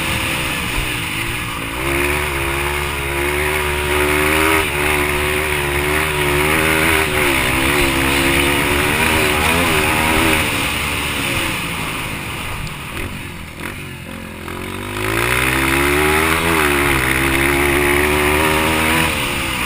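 Yamaha TTR-230's single-cylinder four-stroke dirt-bike engine at racing throttle, its pitch rising and falling with throttle and gear changes. About two thirds through it drops lower and quieter as the throttle closes, then climbs again, over a steady rushing noise.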